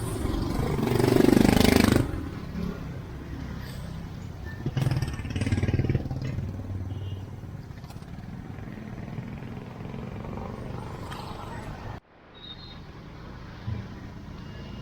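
Busy street traffic: motorcycle engines running and passing close, the loudest passing in the first two seconds, over a steady hum of traffic with people's voices in the background. The sound drops abruptly about twelve seconds in, then carries on quieter.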